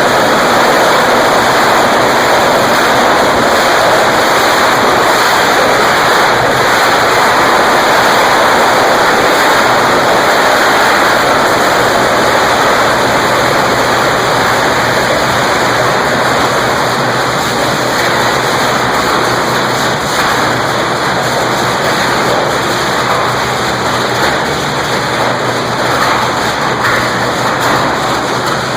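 Electric arc furnace arcing: huge carbon electrodes drawing current through a charge of scrap steel to melt it, giving a loud, steady, rushing crackle that eases slightly near the end.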